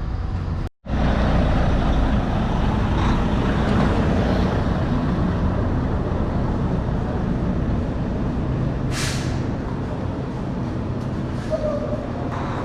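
Diesel semi truck engine running steadily, with a short hiss of released air about 9 seconds in.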